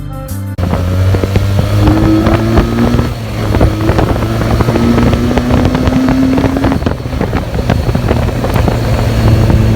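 Benelli TNT 300 parallel-twin engine running through its stock exhaust, heard from the bike with wind noise on the microphone. Its pitch rises in a few stretches and then drops back, as the rider accelerates and shifts.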